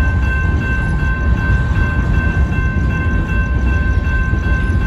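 Freight train of covered hopper cars rolling through a grade crossing: a loud, steady low rumble of wheels on the rails, with steady high ringing tones above it.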